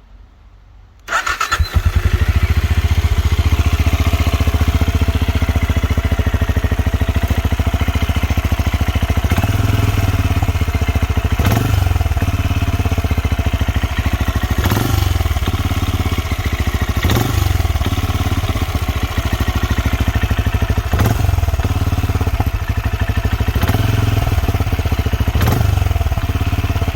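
Benelli Imperiale 400's single-cylinder engine starting about a second in and then idling with an even, steady beat through its exhaust. In the second half it rises briefly every couple of seconds, like light blips of the throttle.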